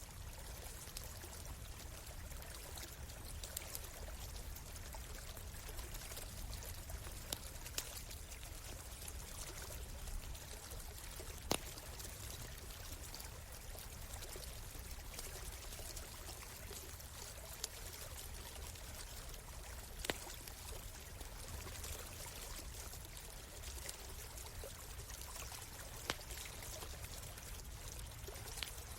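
A stream flowing steadily, with a campfire crackling over it in scattered small clicks and a few sharper pops.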